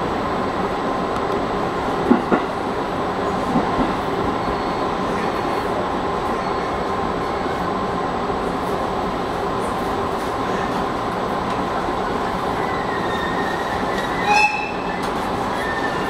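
A JR East 211 series electric multiple unit running, heard from inside the front car: steady rumble of wheels on rail with a thin steady whine. Two short clacks come about two seconds in. Near the end a high wheel squeal sets in as the train runs over points.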